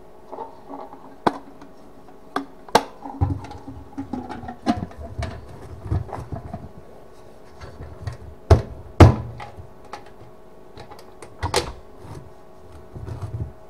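Irregular sharp clicks and knocks of metal being handled, with dull thuds and scraping in between; two loud clacks come a little past halfway. The likely source is the restored steel gas mask canister.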